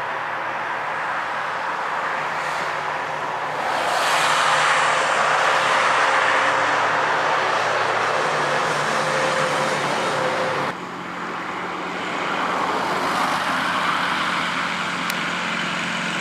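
Tractor engine running hard, growing louder about four seconds in, then dropping off abruptly partway through to a steadier, lower running sound.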